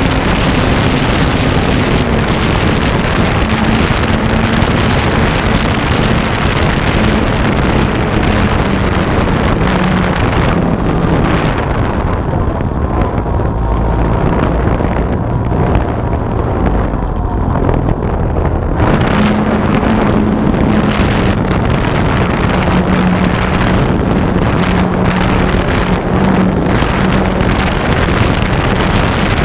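Electric motor and propeller of an RC airplane running in flight, heard from a camera mounted on the plane, under heavy wind noise on the microphone. The motor's steady pitch shifts up and down a little. For several seconds near the middle the high hiss drops away and the sound thins out, then returns.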